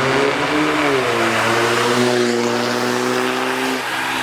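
Drag-racing vehicle's engine revving hard. Its pitch wavers at first, holds steady for a couple of seconds, then drops near the end.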